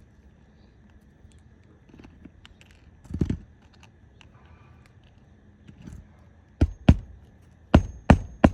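Hammer driving roofing nails through an asphalt shingle: a few light clicks and a thump, then from about two-thirds of the way in a run of sharp blows, about three a second.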